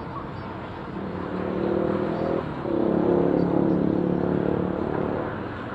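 Motorcycle engine pulling up through the revs over road and wind noise, with a brief drop about two and a half seconds in, like a gear change, before it pulls again.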